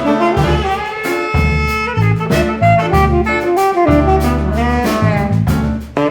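A jazz ensemble playing: tenor saxophone and brass over acoustic bass and drums, with a string section, in a funk-jazz piece.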